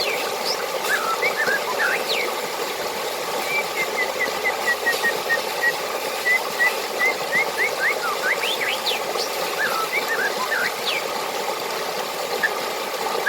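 Running water with a steady rushing, and small birds chirping over it in quick rising and falling notes, with a run of evenly spaced short notes through the middle.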